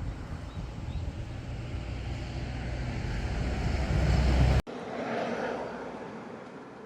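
Motorbike engine running with wind noise while riding, getting louder for the first two-thirds, then cutting off suddenly; after the cut a quieter rushing noise fades away.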